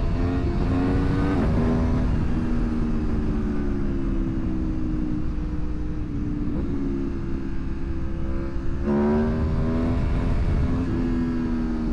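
Aprilia Tuono motorcycle engine under way. It revs up and drops back sharply at a gear change about a second and a half in, sinks slowly as the bike rolls off, then revs hard again about nine seconds in, with another shift near the end. Heavy wind rumble on the helmet microphone underneath.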